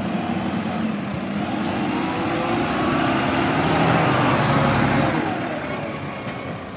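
Recycling collection truck driving along, its engine running and growing louder to a peak about four seconds in as it passes close, then fading away.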